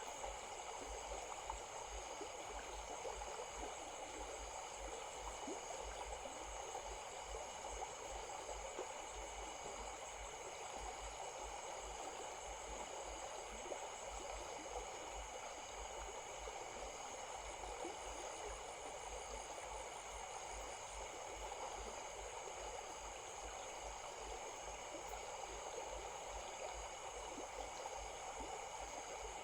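A small stream flowing with a steady babble of water. Several steady high-pitched tones sit above it, and a brief rapid trill comes in a little past the middle.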